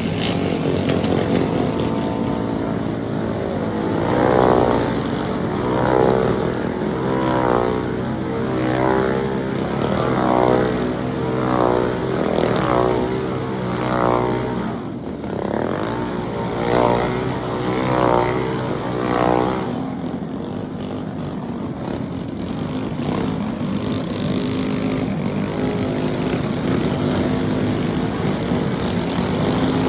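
Mini bike's small engine revving up again and again, about once every second and a half, then settling into a steady run for the last ten seconds or so.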